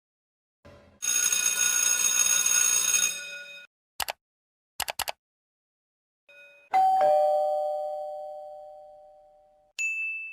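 A string of short sound effects: a steady ringing tone lasting about two and a half seconds, a few sharp clicks, then a two-note ding-dong doorbell chime, high then low, fading out over about three seconds. A short high beep comes near the end.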